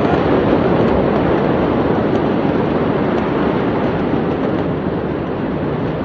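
Loud continuous rushing roar after an explosion, slowly fading.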